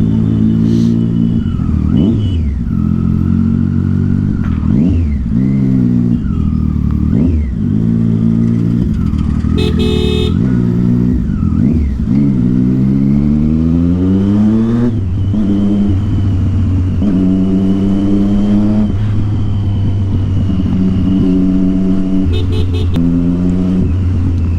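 Triumph Street Triple 675's inline-three engine through a loud aftermarket Yoshimura exhaust, revving up and dropping back again and again as the bike pulls through gear changes, with one long rising pull between about twelve and fifteen seconds in. A short, sharp higher sound cuts in about ten seconds in.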